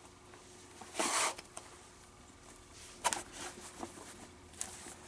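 Leather baseball glove being handled: a few short rubbing and scraping sounds, the loudest about a second in, with small clicks between.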